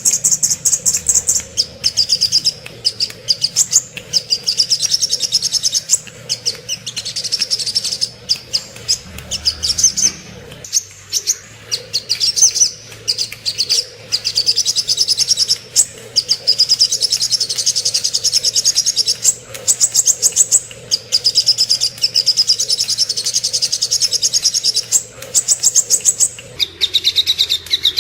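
Sogok ontong, a small sunbird, singing fast, high-pitched trilling phrases of rapidly repeated notes, one after another with short breaks. Near the end a phrase comes in at a lower pitch.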